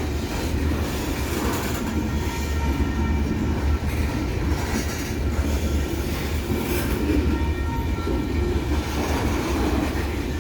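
A train rolling past: a steady, loud rumble of railcar wheels on the rails.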